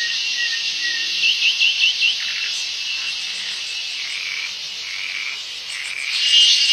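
Steady, high-pitched chorus of forest insects, with a short run of five quick rising chirps between one and two seconds in; the chorus swells louder and pulses near the end.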